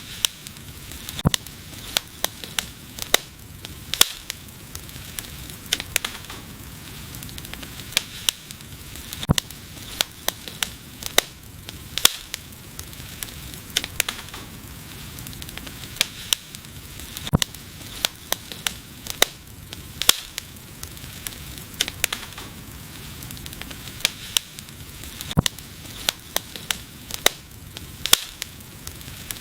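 Wood fire crackling: sharp, irregular pops and snaps, some loud, over a steady soft hiss of burning.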